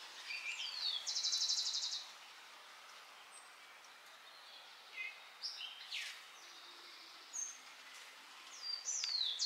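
Birds singing over faint, even background noise: a falling whistled note near the start and again at the end, a fast trill about a second in, and scattered short chirps around the middle.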